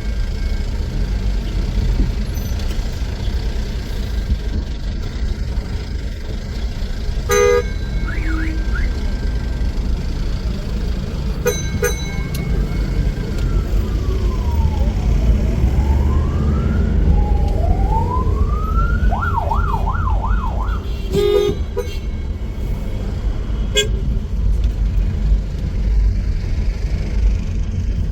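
Steady street-traffic rumble with car horns tooting a few times. An emergency-vehicle siren runs through the middle stretch: a quick warble, then slow wails falling and rising, then a fast yelp.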